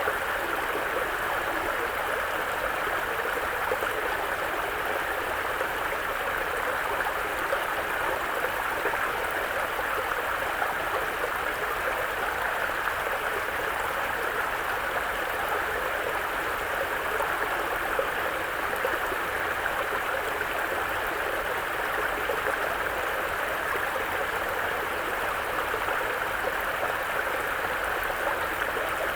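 Mountain brook flowing: a steady, unchanging rush of running water.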